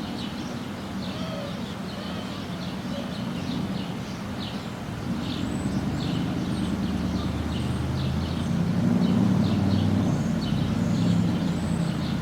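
Low rumble of a jet airliner passing high overhead, swelling over the second half. Small birds chirp repeatedly throughout.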